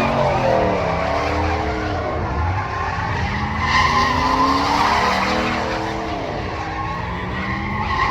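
A vehicle engine revving up and falling back again, about three times over.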